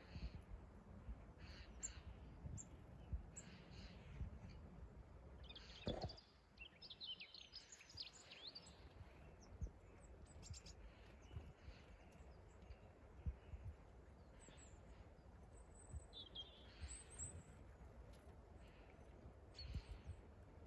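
Faint woodland birds calling, with scattered short chirps and a busier run of quick calls about seven to nine seconds in, over a low rumbling background. A single thump sounds about six seconds in.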